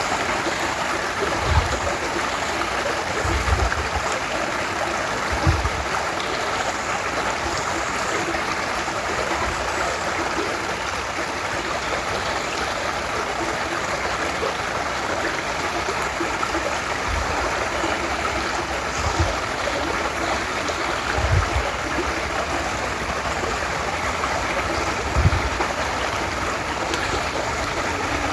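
Small woodland creek, the Prießnitz, babbling steadily over stones, with a few brief low thumps.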